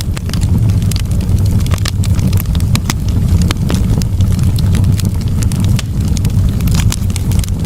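Fireplace fire crackling: irregular sharp snaps and pops over a steady low rumble of burning.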